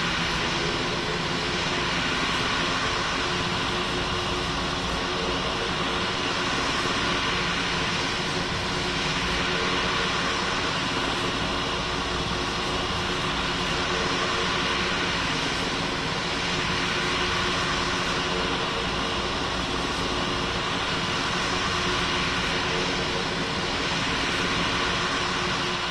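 Steady jet engine and airflow noise of a Boeing 777 heard inside the passenger cabin, an even rush with a few held tones underneath.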